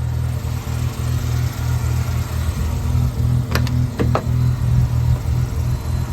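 1984 Mazda RX-7's rotary engine idling steadily on a cold start, not yet up to operating temperature. Three short, sharp clicks come about three and a half to four seconds in.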